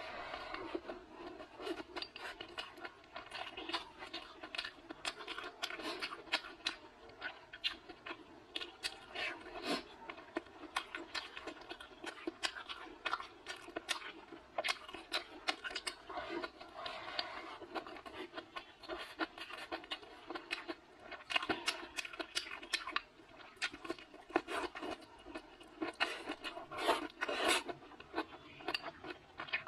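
A person eating spicy chicken wings and noodles close to the microphone: an unbroken run of wet chewing and short mouth clicks and smacks.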